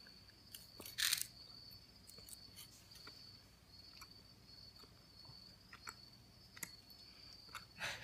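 A child chewing a soft, chewy Hi-Chew candy: quiet, sparse wet mouth clicks and smacks. There is a short louder hiss about a second in and another near the end.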